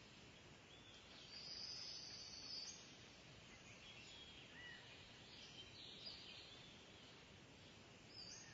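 Faint outdoor background with birds giving high-pitched chirps and calls. The loudest and longest calls come a second or two in.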